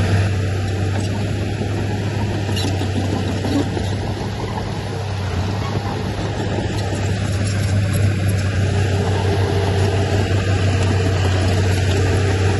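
Diesel engine of heavy earthmoving machinery running steadily, a strong low hum under a dense mechanical noise.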